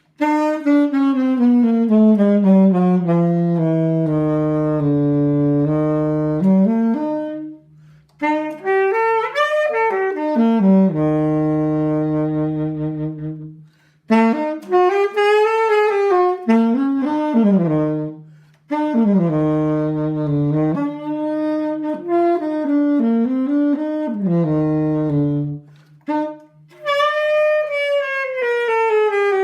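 Alto saxophone being play-tested after a repair. It plays several melodic phrases separated by short pauses, holding long low notes near the bottom of its range and climbing to higher notes in between.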